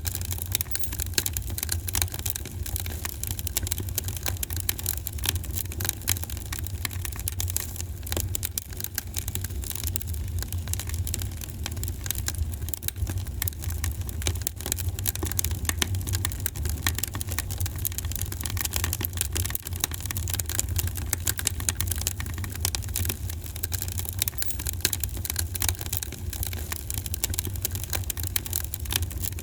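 Wood fire crackling, with a constant stream of small pops and snaps over a steady low rumble.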